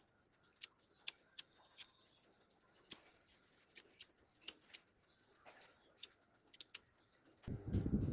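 Scattered light clicks and taps of small parts being handled, irregularly spaced. A louder, rough, continuous noise starts near the end.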